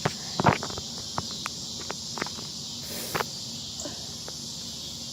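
Irregular footsteps crunching on the ground, the loudest about half a second in, over a steady high-pitched insect chorus.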